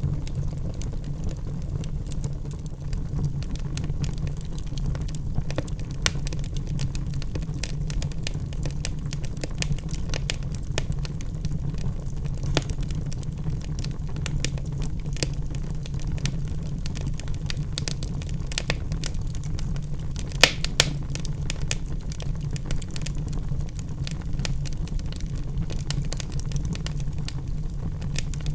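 Wood fire burning in a fireplace: a steady low rumble of flames with frequent sharp crackles from the logs, and two louder pops about two-thirds of the way through.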